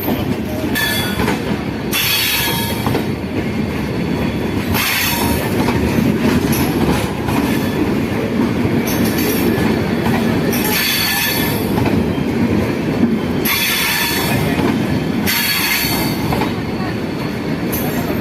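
Train running past close by, its wheels rumbling steadily on the rails, with short bursts of high-pitched wheel squeal every couple of seconds.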